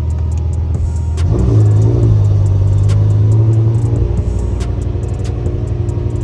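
BMW E60 M5's 5.0-litre V10 with a straight-piped, valved exhaust running at idle, then rising in pitch about a second in and holding a higher, louder note for a couple of seconds before dropping back. Sharp ticks sound here and there over the engine note.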